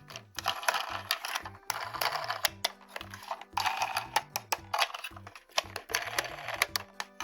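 Plastic toy packaging and toy parts being handled: rapid clicks and taps with crinkling rustle, over soft background music with a low bass line.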